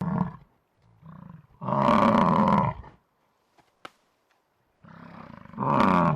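Buffalo bellowing: two long calls, about three seconds apart, each starting quietly and then swelling loud.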